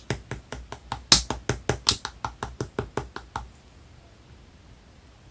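Slime being pressed and squished by hand, giving a quick run of sharp clicking pops, about five a second, that stops about three and a half seconds in.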